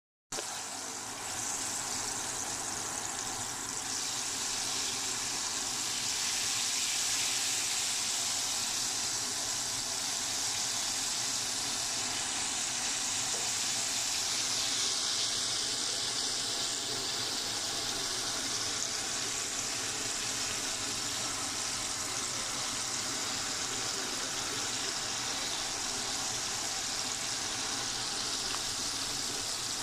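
Battered chicken pieces deep-frying in hot oil in a pan: a steady sizzle, bright and hissy.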